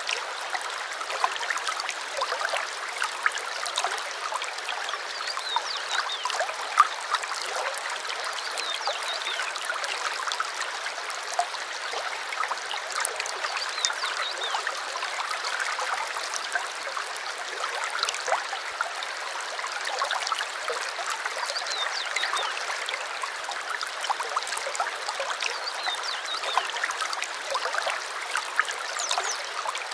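Small stream flowing and trickling, a steady rush of water with many small irregular splashes and gurgles.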